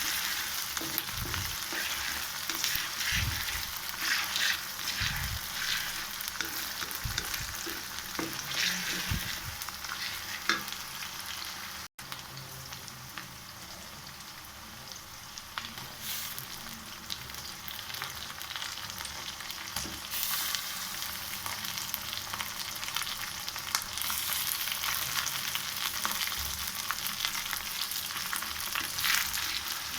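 Curry ingredients sizzling and frying in a pan, with a spatula stirring and knocking against the pan in the first half. The sizzle cuts out for an instant about twelve seconds in, then continues more evenly.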